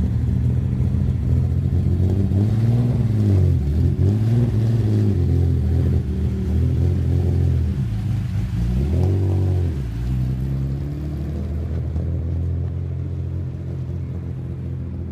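Classic Japanese car's engine through a loud aftermarket muffler, idling with a deep, steady rumble and revved in quick throttle blips twice, about three seconds in and again around eight to ten seconds in, the pitch rising and falling each time before it settles back to idle.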